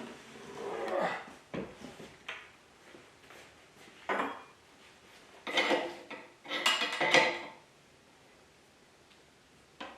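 Irregular knocks, scrapes and clatters of wooden workbench parts and hardware being handled and fitted. The loudest clattering comes past the middle, then it goes quiet apart from one click near the end.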